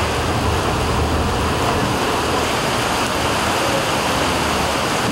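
Heavy rain and floodwater rushing down a street, a steady hiss with no let-up.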